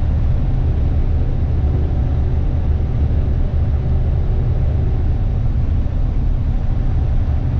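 Steady drone of a semi truck's diesel engine and road noise, heard from inside the cab while cruising at highway speed.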